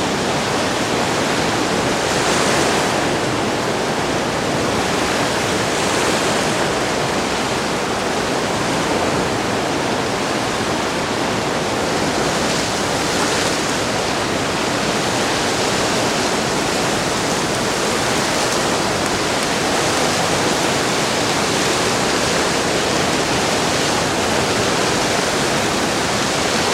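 The Driva river in major flood, running at around 1000 cubic metres a second: a loud, steady rush of fast, turbulent water that swells slightly a few times.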